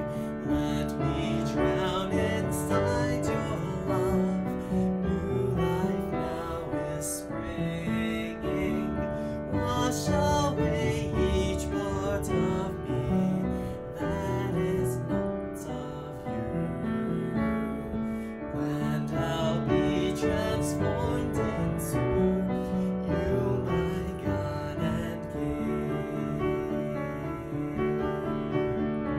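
Piano music: a keyboard playing a slow worship song melody with chords.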